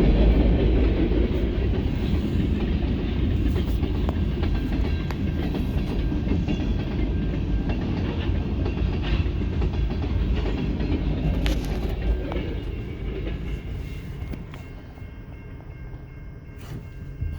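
CSX freight train's railcars rolling past, a steady low rumble with sharp wheel clicks on the rails. The rumble fades from about twelve seconds in as the train draws away.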